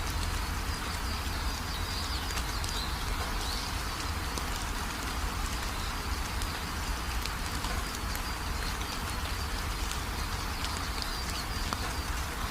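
Steady rain falling, with a dense patter of individual drops ticking on a surface. Faint high chirping calls come through the rain a couple of seconds in and again near the end.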